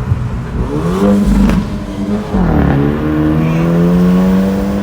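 Hyundai Elantra N's turbocharged 2.0-litre four-cylinder accelerating through a new aFe Takeda cat-back exhaust. The engine note rises about a second in and dips briefly about two seconds in, then climbs again and holds steady near the end.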